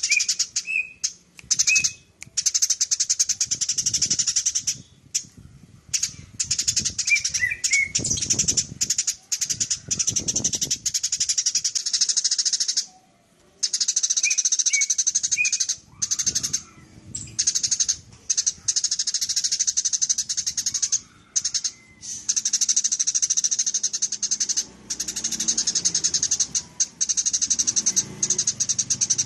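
Eurasian tree sparrow chattering in long, very fast rattling runs, broken by short pauses, with a few separate short chirps in between.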